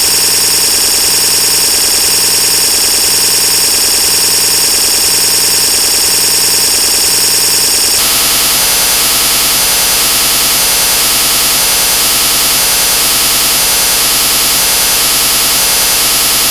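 Loud, harsh electronic noise made of synthesized tones repeating too fast to separate, blurring into a steady dense buzz. Its texture changes abruptly about halfway through.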